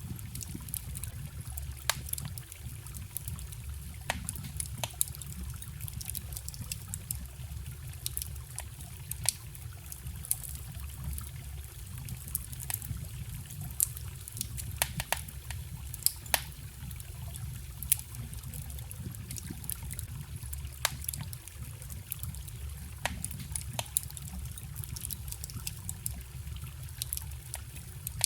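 Wood fire crackling, with sharp irregular pops and snaps several times a second, over the steady low rush of a forest stream.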